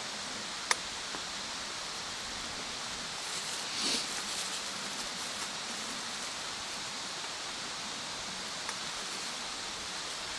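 Wood bonfire burning with a steady hiss, a single sharp pop about a second in, and a short louder flare of crackle around the middle.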